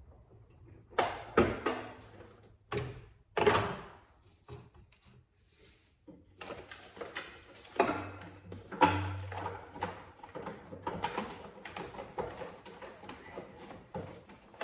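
Knocks, clicks and rattling from hand tools and parts being handled in a cramped space: a few sharp knocks in the first four seconds, then a busier run of irregular clattering and scraping.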